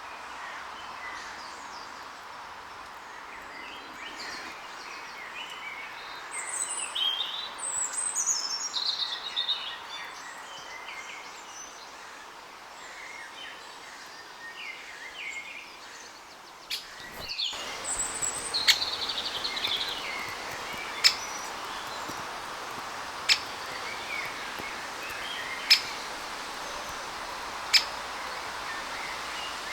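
Small songbirds singing and calling over steady background noise, with a bright run of falling notes about a quarter of the way through. In the latter part a sharp click repeats about every two seconds.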